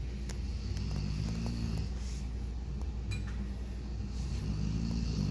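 Dog snoring in its sleep: two drawn-out, low snores, about three seconds apart, over a steady low rumble.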